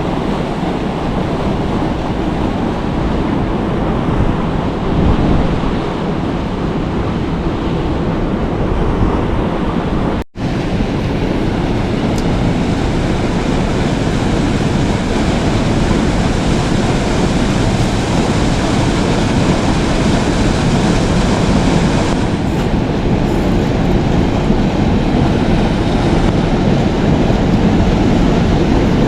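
Steady rushing of river water, a loud even wash with no speech over it, briefly dropping out about ten seconds in.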